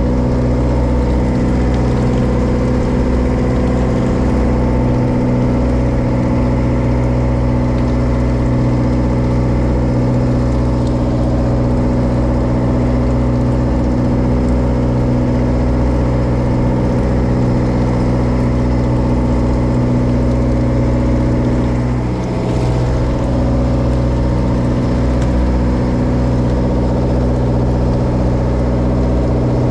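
A bottom-trawl fishing boat's inboard engine running steadily at an unchanging speed, heard close by on board.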